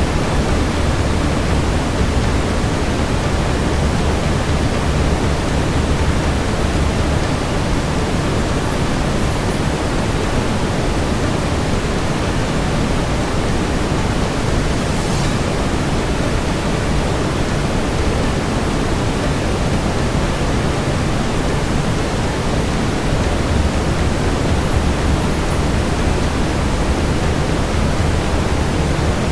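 Steady brown noise, a dense even hiss weighted toward the low end, with a faint click about halfway through.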